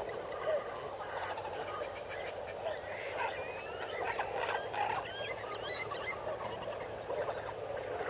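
Wildlife ambience: a dense chorus of many birds and frogs calling together. A few clear whistled bird calls slide up and down partway through.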